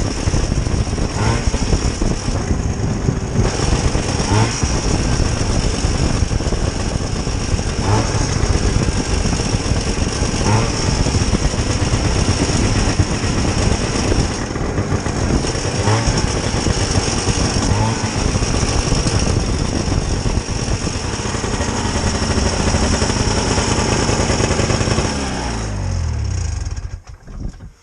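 Vintage snowmobile's small two-stroke engine running steadily at speed, then winding down in pitch and shutting off near the end.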